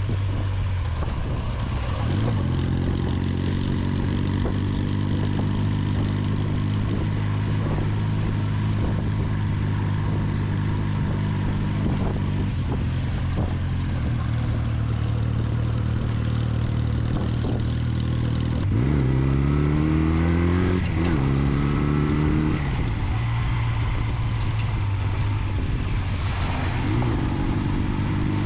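Restored Honda NX250's single-cylinder four-stroke engine running steadily, revved up briefly about two-thirds of the way through and again near the end.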